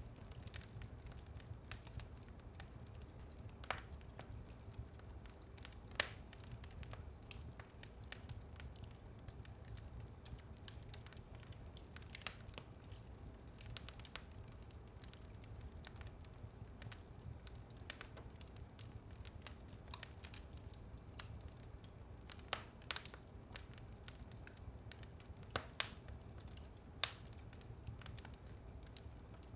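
Wood fire in a fireplace crackling, with irregular sharp pops, a few of them louder, over a low steady rumble.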